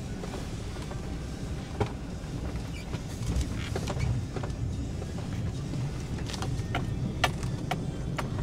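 Car driving, heard from inside the cabin: a steady low rumble of engine and road noise, with scattered sharp clicks and knocks, most of them in the last couple of seconds.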